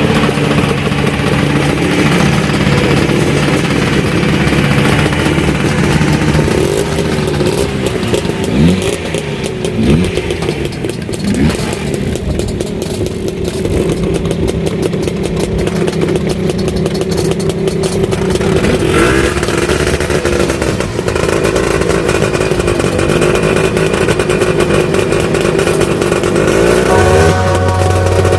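Small vintage scooter engines running, with several quick revs rising and falling in pitch about a third of the way through.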